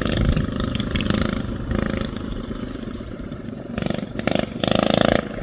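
Small mini bike engine running, revving up louder about four seconds in.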